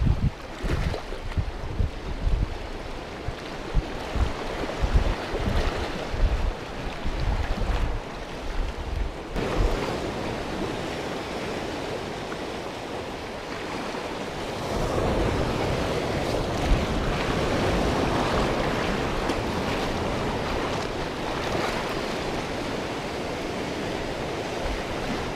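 Wind buffeting the microphone over the wash of the sea, gusty at first; from about nine seconds in it turns into a steadier rush of wind and water that grows louder midway.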